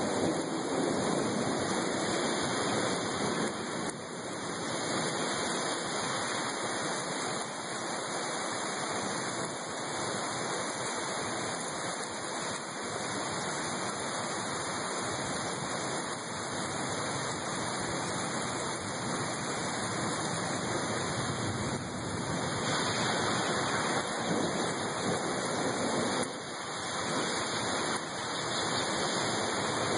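Heavy rain pouring down steadily, a dense, even hiss that swells and eases slightly a few times.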